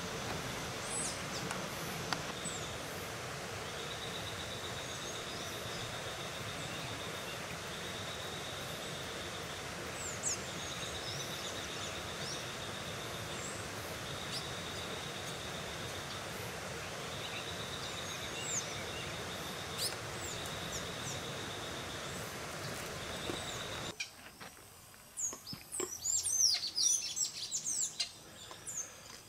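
Wild birds calling against a steady hiss, with a repeated buzzy trill that comes in runs of a few seconds and scattered high chirps. About 24 seconds in, the background drops away suddenly and a burst of rapid, high-pitched bird chirps and calls follows.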